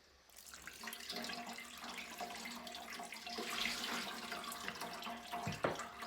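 Liquid running steadily into a kitchen sink, with a single knock about five and a half seconds in.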